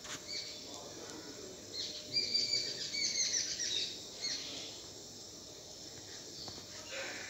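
Birds chirping: short, high chirps in a busy cluster about two to four seconds in, then fewer, over faint outdoor background noise.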